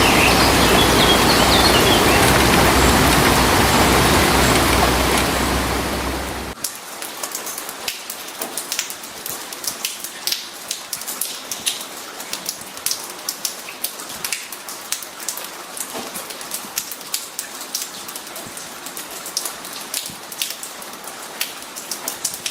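A loud, steady rushing noise for about the first six seconds, then an abrupt cut to quieter rain with many individual drops pattering and dripping close by.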